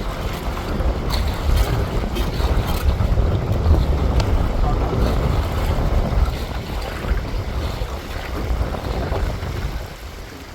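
Strong wind buffeting the microphone, a heavy low rumble that eases off near the end.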